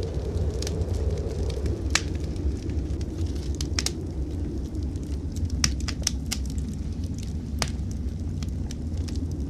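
Wood fire in a fireplace crackling, with sharp pops scattered through it, the strongest about two seconds in and a cluster around six seconds, over a steady low rumble.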